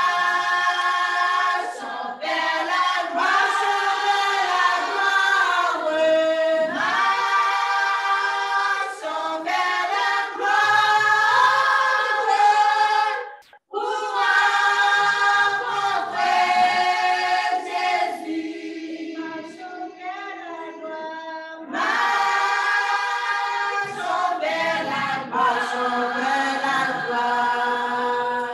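A mixed choir singing a gospel hymn in held, sustained chords. The singing breaks off briefly about halfway through and goes softer for a few seconds after that.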